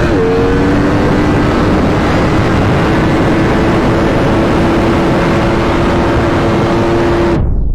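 Vehicle engine running hard at highway speed under heavy wind and road noise. The engine note rises and drops right at the start, then holds a steady tone that climbs slowly as it pulls. The sound cuts off abruptly near the end.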